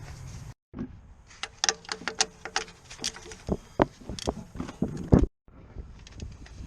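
Metal tools and parts clinking and knocking as they are handled, with many sharp clicks, some ringing briefly. Twice the sound drops out completely for a moment.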